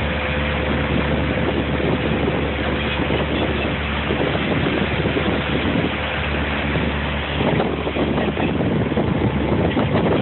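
Motorboat under way: a steady engine hum under the rush of water past the hull, with wind buffeting the microphone. The wind noise gets rougher and gustier about three-quarters of the way through.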